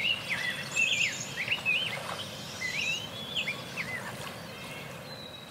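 Birds singing: a run of quick chirping phrases that thin out and fade away near the end.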